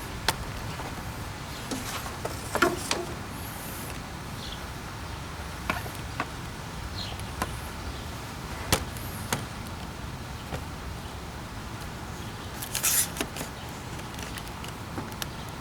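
Scattered clicks and knocks of hard plastic parts being handled, with a short rustle near the end: the engine air filter housing being opened and the filter worked out.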